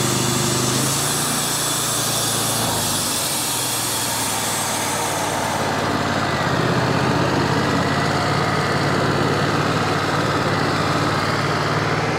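A Wood-Mizer portable band sawmill's engine runs steadily under a high hiss, which thins out about six seconds in.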